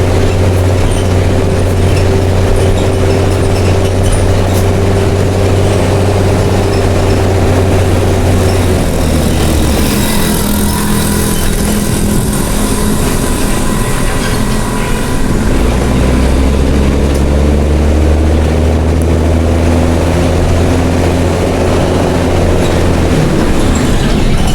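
Mercedes-Benz OM366LA turbo-diesel engine of a city bus, running loud through a straight-through open exhaust. About nine seconds in the engine note drops as it eases off, followed by a burst of hiss. From about sixteen seconds it pulls hard again, then eases shortly before the end.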